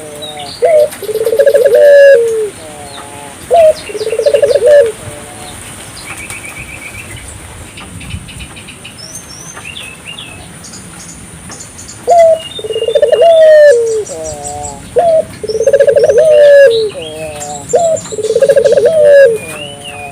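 Barbary doves (burung puter) cooing: rolling, stuttering coos, each opened by a short sharp note, repeated in two bouts with a pause of several seconds between. Small birds chirp high above them, and a steady high tone runs underneath.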